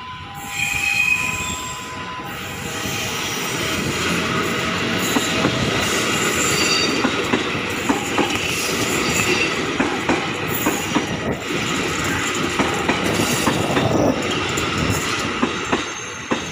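Commuter electric multiple unit train passing close by, its steel wheels clattering over rail joints in a run of sharp clicks, with brief high wheel squeals. It grows louder about four seconds in as the cars draw level.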